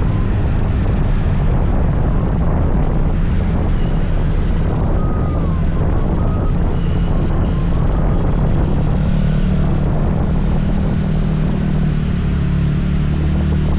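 Scooter engine running steadily while riding, a constant motor hum with road noise.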